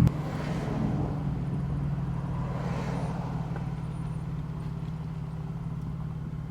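Steady low hum of a car's engine and road noise as it is driven.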